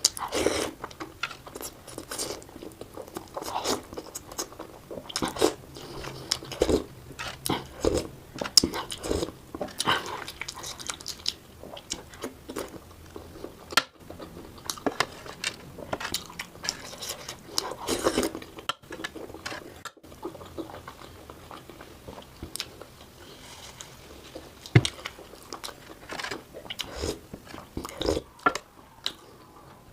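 Close-up eating sounds of someone biting and chewing momo dumplings, with wet mouth smacks and some crunching, sped up to double speed. Dense, irregular clicks and smacks, broken by a few abrupt cuts.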